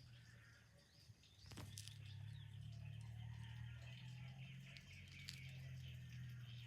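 Faint birds chirping over a low, steady hum, with a single sharp click about a second and a half in.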